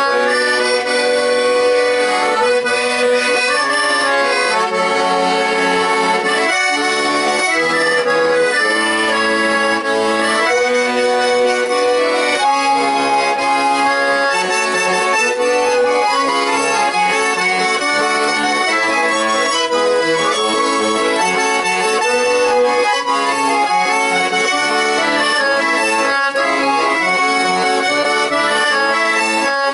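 Garmon (Russian button accordion) playing a melody over its own chord and bass accompaniment, unbroken throughout.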